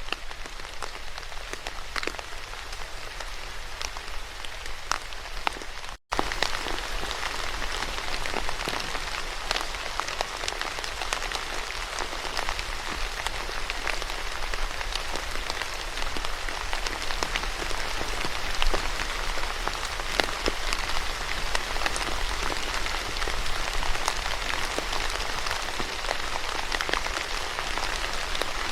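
Steady rain falling on a surface, with many individual drops heard as sharp taps. About six seconds in it cuts out for an instant, then comes back a little louder and fuller.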